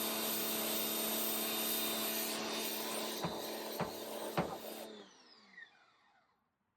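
Pressure washer running and spraying, a steady hiss over a motor hum. Three light knocks come between about three and four and a half seconds in. About five seconds in the spray stops and the motor winds down with a falling whine.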